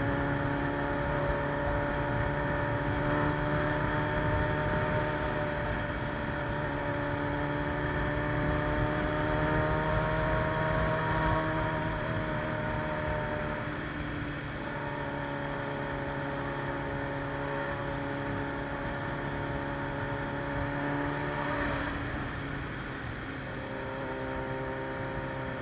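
Carburetted Suzuki Bandit 600's inline-four engine running through a straight-pipe sport exhaust at a steady speed, its pitch drifting only slightly with a couple of brief dips.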